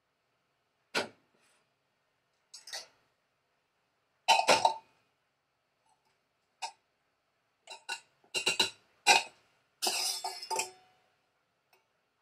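Scattered clicks, taps and knocks of food preparation, with a longer scraping noise about ten seconds in.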